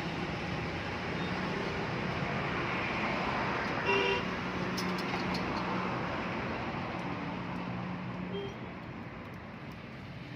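Steady traffic noise with a low engine hum, and a short vehicle horn toot about four seconds in.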